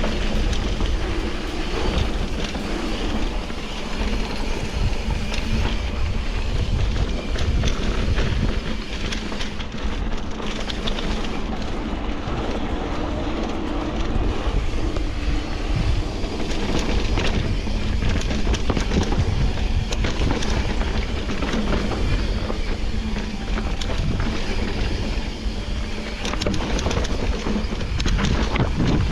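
Continuous riding noise on a bike ride: a steady, heavy low rumble with scattered clicks and rattles throughout.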